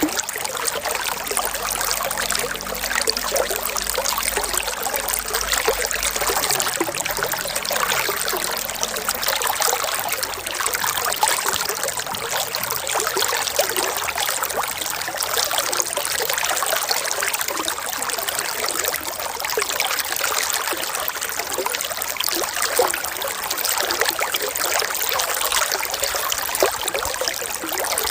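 Running water in a stream, trickling steadily at an even level.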